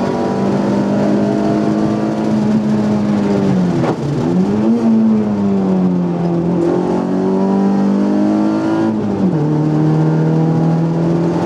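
Group A Nissan Micra rally car's engine heard from inside the cabin, pulling at steady revs. About four seconds in the revs dip and swing back up as the car slows for a bend, and a little after nine seconds the pitch drops suddenly to a lower steady note with a gear change.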